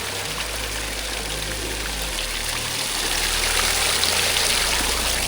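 Rushing water and surf, a steady wash that grows louder about three seconds in, with a low rumble underneath.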